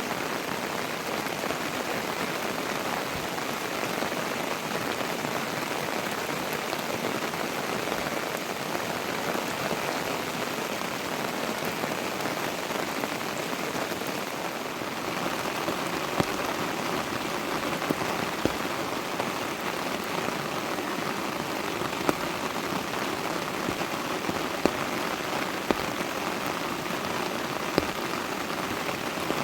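Steady heavy rain falling, with a handful of sharper drip impacts standing out in the second half.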